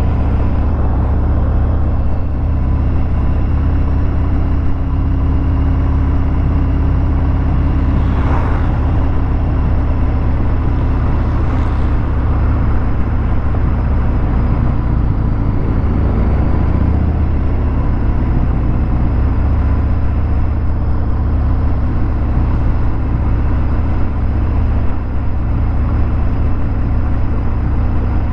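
Harley-Davidson Fat Bob 114's Milwaukee-Eight V-twin running through a Vance & Hines 2-into-1 exhaust, at a steady, loud, low pulse while riding in traffic, with road and wind noise on the microphone.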